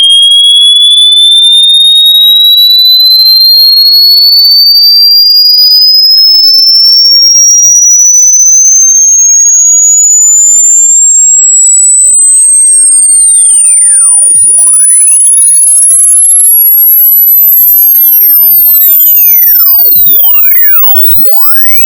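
Loud electronic speaker-cleaning test tone: a single pure tone gliding steadily upward in pitch from high to very high, played to vibrate water and dust out of a speaker. It drops sharply in level near the end.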